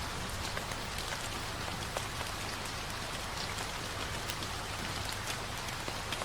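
Rain falling steadily, a dense even hiss dotted with the ticks of individual drops hitting a surface.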